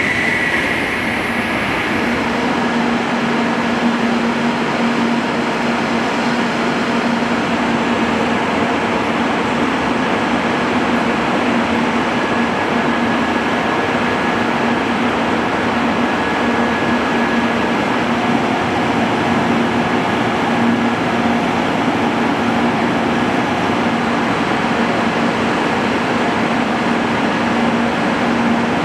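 Steady, unchanging hum and rush of a shinkansen train, with a constant low tone running through it.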